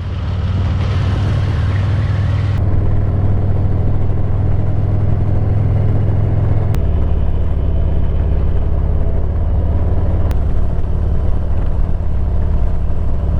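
Motorcycle engine running steadily, in a few joined clips that change abruptly about two and a half, seven and ten seconds in.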